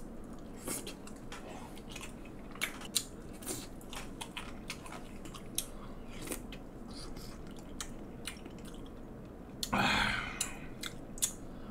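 Close-miked mouth sounds of a person eating: chewing and smacking a mouthful of food, with many small irregular wet clicks. A brief louder sound comes near the end.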